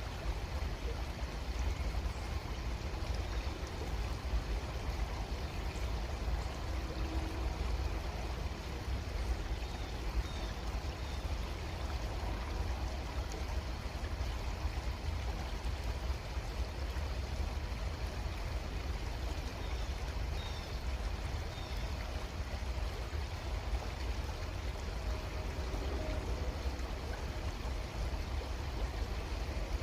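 Creek water flowing steadily: an even, continuous rushing with a strong low rumble underneath.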